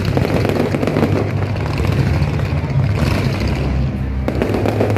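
Fireworks going off: a dense run of crackles and bangs over a steady low rumble.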